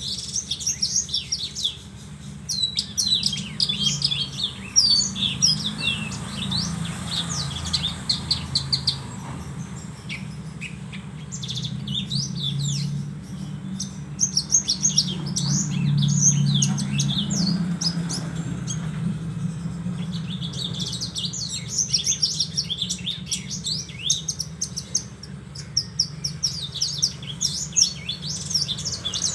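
Javan bush lark (branjangan) singing a rapid, varied stream of high chirps and short trills in long runs with brief pauses, over a low steady hum.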